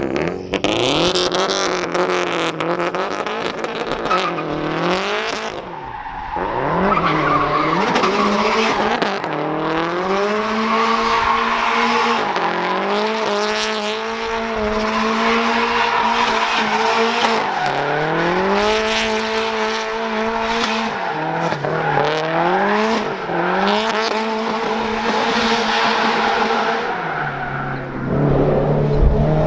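Straight-piped Subaru WRX STI's turbocharged flat-four revving up and falling back again and again while the tyres squeal and skid through all-wheel-drive donuts. Near the end the engine drops back to a steady idle.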